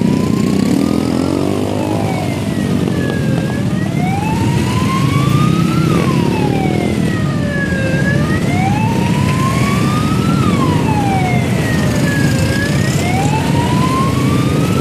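A siren in a slow wail, rising and falling about every four and a half seconds, over the steady rumble of engines.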